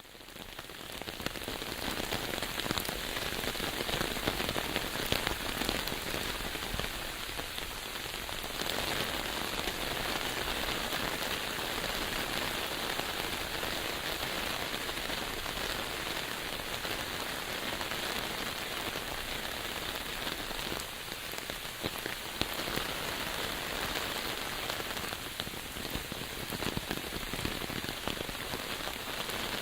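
Steady rain falling, a dense patter of drops, fading in over the first second or so.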